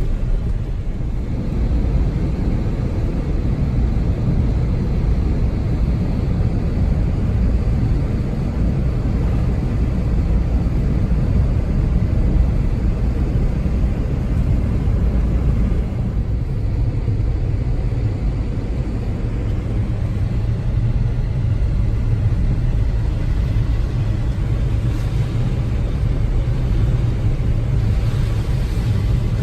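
Steady low rumble of road and tyre noise inside the cabin of a 2014 Chevrolet Spark EV on the move.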